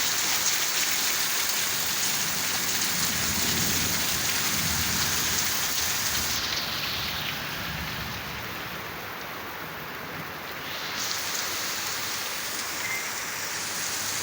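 Heavy rain falling steadily on surfaces, easing for a few seconds in the middle before picking up again.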